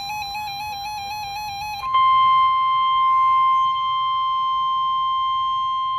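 A fast-warbling electronic tone, cut off about two seconds in by the NOAA Weather Radio warning alarm tone. This is a single steady, louder beep near 1 kHz that holds from then on and signals that a new warning is about to be read.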